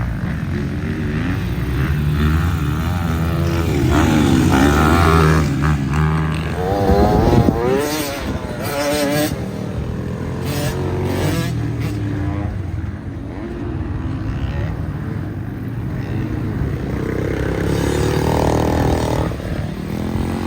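Dirt bike engine being ridden hard, its pitch climbing and dropping again and again as the throttle is opened and closed, with the sharpest revving about four to nine seconds in.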